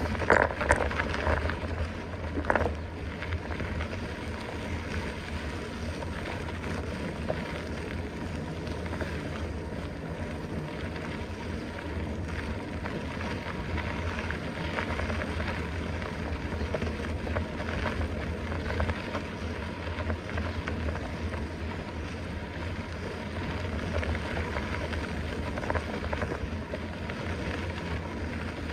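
Steady rolling noise of a mountain bike being ridden uphill, tyres on the trail with wind buffeting the microphone, and a couple of sharp knocks in the first three seconds.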